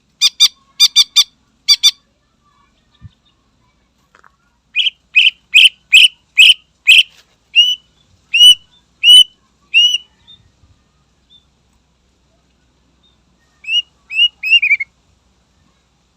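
Cucak ijo (greater green leafbird) singing in loud bursts. A quick run of harsh chattering notes comes first, then a longer series of about a dozen notes that turn from harsh to clear, downward-curving whistles, and a short run of three or four notes near the end.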